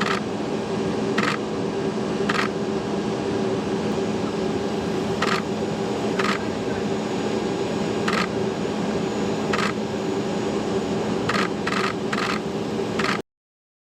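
Camera shutters clicking a dozen or so times, singly at first and then in a quick run of four near the end, over a loud steady mechanical hum with several steady tones.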